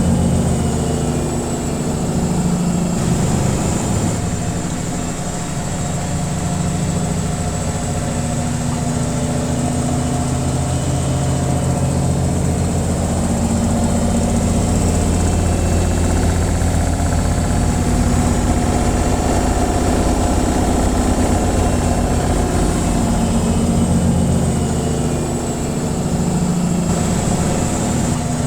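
Washing machine on its spin cycle: a steady motor and drum hum with low tones that drift slowly in pitch.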